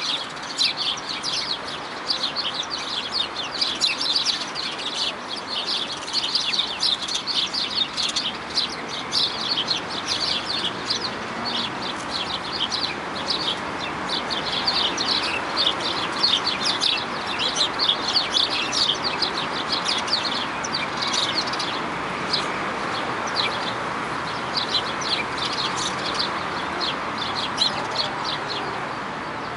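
A flock of small birds chirping over one another: a dense, unbroken chatter of short, high chirps over a steady background hiss.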